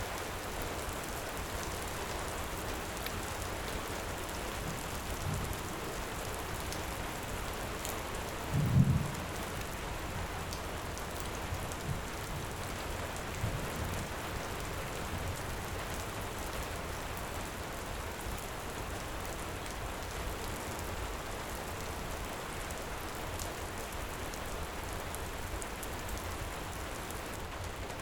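Steady heavy rain, with a brief low rumble of thunder about nine seconds in and a few faint crackles of a wood fire.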